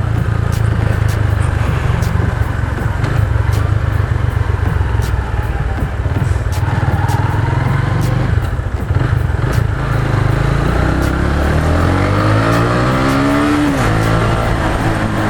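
Rusi Sigma 250 motorcycle being ridden on the road: its engine is running steadily under a rush of wind on the microphone. Near the end the engine note rises in pitch and drops back.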